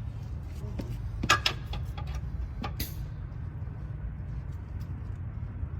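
Sharp metal knocks and clunks from the idler wheels on a Cat 299 skid steer's track undercarriage being worked by hand to check for play. The loudest is a quick double knock about a second and a half in, over a steady low rumble. The check finds the idlers good.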